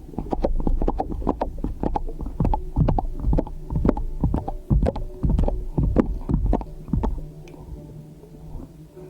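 Slime being squeezed and pressed close to the microphone, making repeated low, squelchy thumps, about two to three a second. They stop about seven seconds in, leaving a quieter steady low hum.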